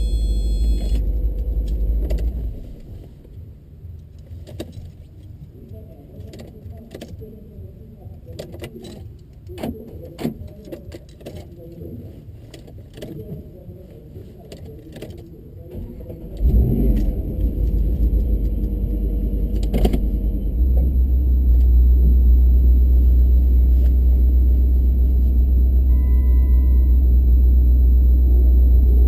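Car engine running with a deep, loud rumble that drops away after about two seconds, leaving a quieter stretch of scattered clicks and rattles. About sixteen seconds in, the loud low engine sound comes back suddenly and stays steady.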